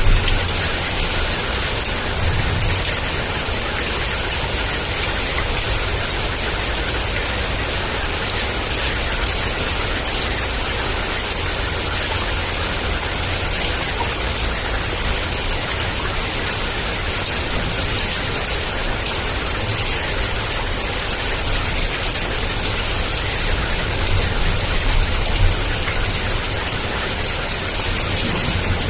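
Heavy, steady downpour of rain with a low thunder rumble beneath it that swells and fades now and then.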